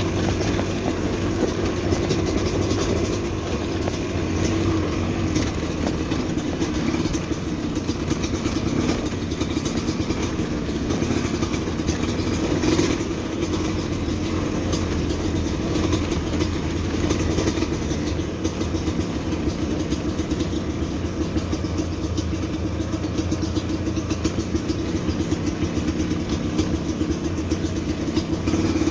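Motorcycle engine running steadily on the move over a rocky trail, its pitch holding fairly even throughout.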